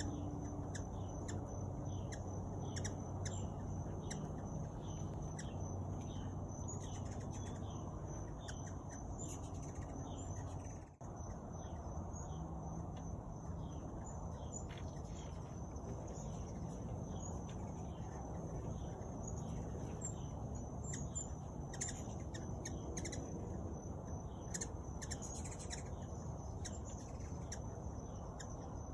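A bird repeats short, falling chirps about twice a second, over a steady high-pitched insect drone and a low background hum.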